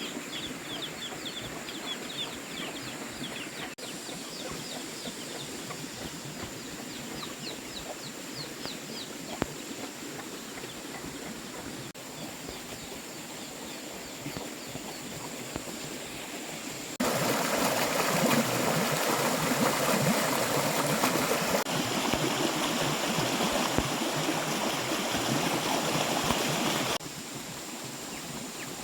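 Outdoor farmyard ambience with small birds or chicks chirping in quick runs and a steady high whine throughout. A little past the middle, a louder, even rushing noise like running water starts and stops abruptly and lasts about ten seconds.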